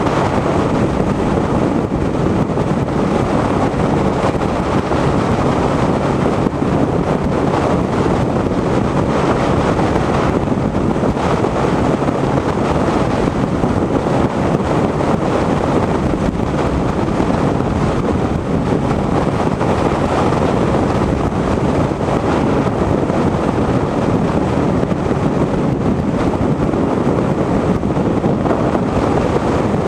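Steady rush of wind on the microphone of a motorcycle riding at highway speed, with the bike's running noise underneath.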